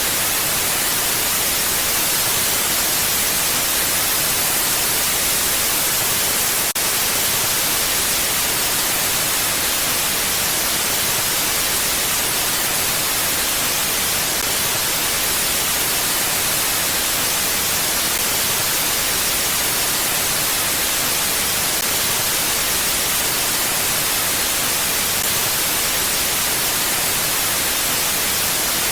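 Steady, even wind hiss with no gusts or swells, strongest in the high frequencies, and one tiny break about seven seconds in.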